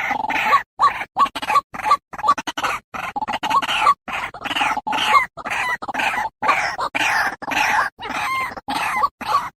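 White-breasted waterhen (ruak-ruak) calls played as a bird lure: a fast, unbroken run of short repeated calls with brief gaps between them.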